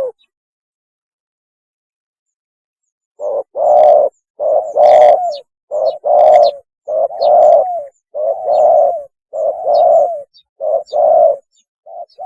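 Spotted dove cooing its mating call: after about three seconds of silence, a run of low, repeated coo phrases, each a short note followed by a longer one, about one phrase a second. Faint high chirps sound above the coos.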